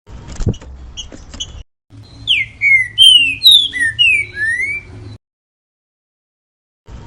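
Green-winged saltator (trinca-ferro) singing its 'grego mole boi' song: a few short clicking notes, then a loud phrase of about seven whistled notes gliding up and down.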